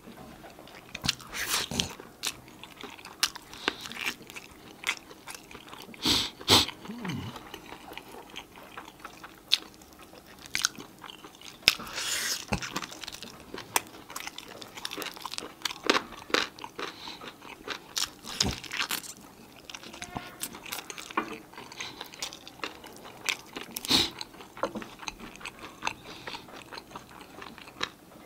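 Close-up eating sounds of a person chewing and biting into sauced chicken wings: a steady run of irregular short clicks from the mouth as the meat is torn off the bones and chewed.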